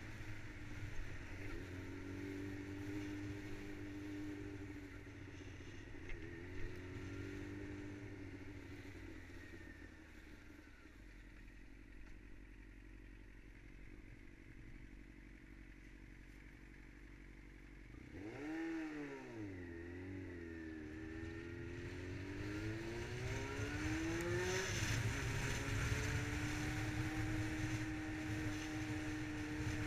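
Yamaha R6 inline-four engine heard from the bike. It runs steadily at first and goes quieter and lower in the middle. About 18 seconds in it revs up through several gear changes, pitch rising and dropping, then settles into a steady cruise as wind and road noise build.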